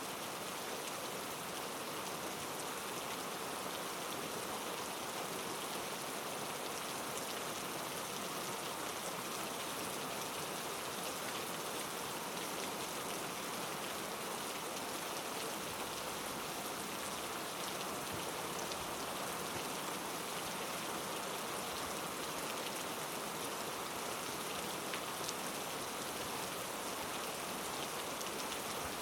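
Heavy rain falling steadily on rainforest foliage, a constant even hiss of drops.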